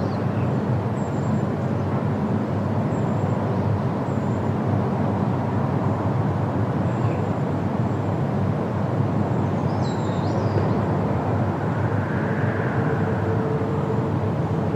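Steady wind through trees, a dense, low, even rush, with a few faint bird chirps over it, the clearest about ten seconds in.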